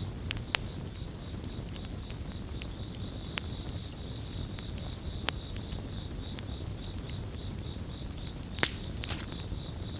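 Campfire crackling, with scattered sharp pops and one louder pop near the end, over a low rumble, while crickets chirp in a steady, evenly pulsed high trill.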